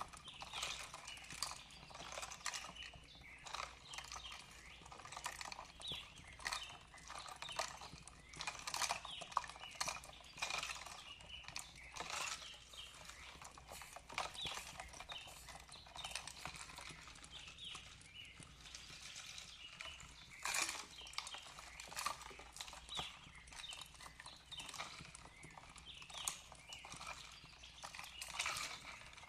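Fireplace crackling: a steady scatter of irregular wood pops and snaps, several a second.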